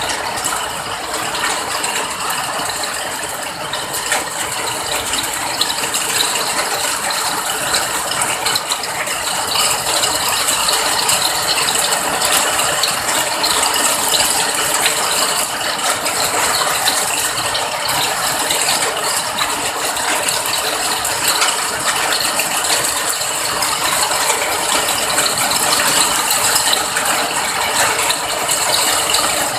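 Steady rain: a dense, even patter of countless drops that holds without let-up.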